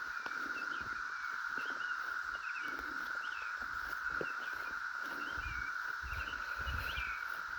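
Dense chorus of cicadas holding one steady, high drone, with short scattered bird chirps over it.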